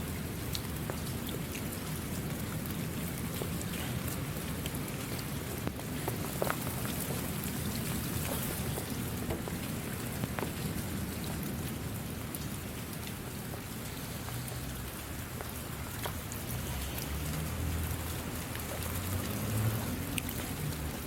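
Steady rain falling, with scattered single drops ticking through it and a low rumble swelling in the last few seconds.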